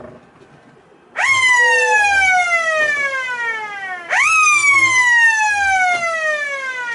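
A siren sounding two wails, each rising sharply and then falling slowly over about three seconds, the second starting about three seconds after the first.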